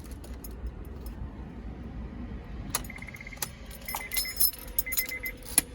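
A 2002 Honda S2000 being shut down: a low engine rumble, a click about three seconds in, keys jangling, and a warning chime beeping in three short bursts of rapid beeps.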